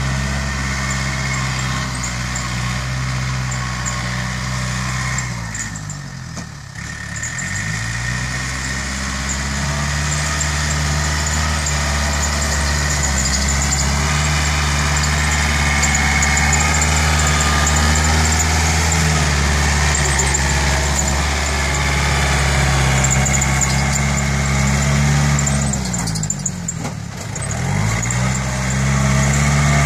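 Yanmar EF 494T tractor's diesel engine running steadily. Twice its speed drops sharply for about a second and then climbs back up.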